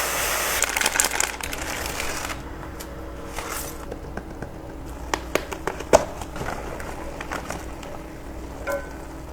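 A burst of crinkling, rustling noise for about two seconds, then scattered crackles and sharp clicks, one louder snap about six seconds in.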